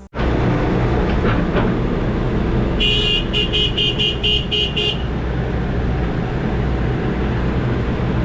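Heavy equipment diesel engine running steadily, with a rapid string of about seven high electronic beeps over two seconds, starting about three seconds in.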